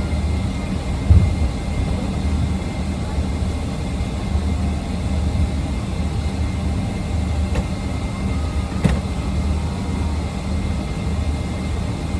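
Steady low rumble of a running vehicle, with two brief clicks about two-thirds of the way through.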